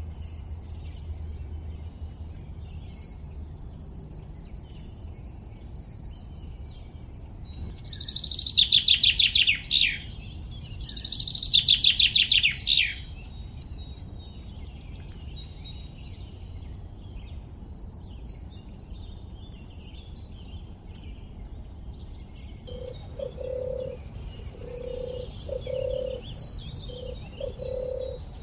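Birds singing in the background, with faint chirps throughout and two loud, fast trills falling in pitch about eight and eleven seconds in. Near the end a lower call repeats about once a second.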